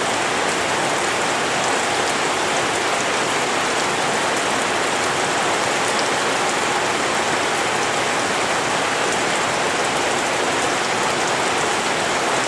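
Steady rain falling: a dense, even hiss with scattered raindrop ticks.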